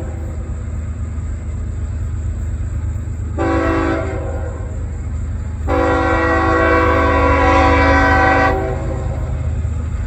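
Diesel freight locomotive's Nathan K5HL five-chime air horn sounding a short blast about three seconds in, then a long blast held nearly three seconds, over the steady low rumble of the approaching GE ES44AC-H locomotives.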